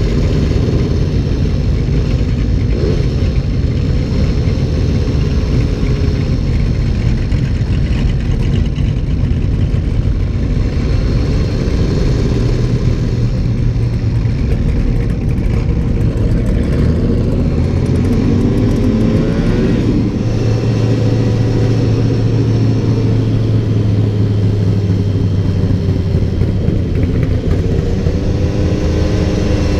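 Vehicle engines running with a heavy low rumble. A steady engine note holds through the middle, with a rise and fall in pitch like revving about two-thirds of the way in and again near the end.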